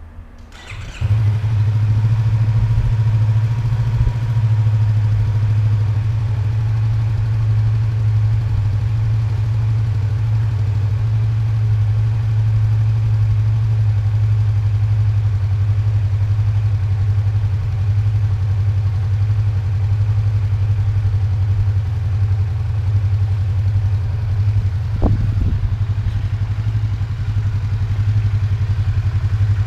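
Yamaha YZF-R25's 249 cc parallel-twin engine idling steadily, coming in abruptly about a second in, heard through a microphone inside the rider's helmet. A brief chirp sounds near the end.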